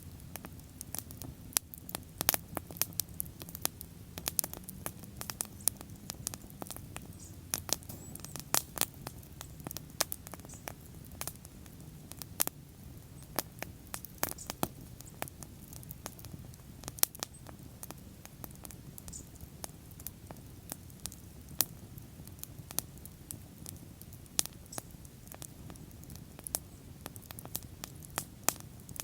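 Wood bonfire burning and crackling: irregular sharp pops and snaps, several a second, over a steady low rush of flame.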